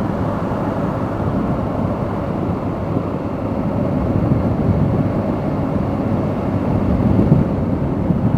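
Motorcycle riding at road speed: a steady engine drone mixed with low wind rumble over the microphone.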